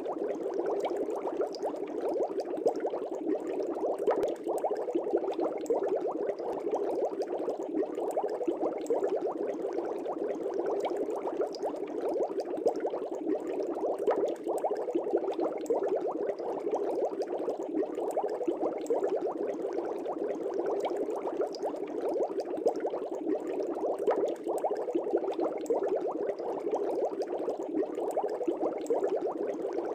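Air bubbles streaming up through the water of a fish tank: a steady, dense bubbling that never pauses.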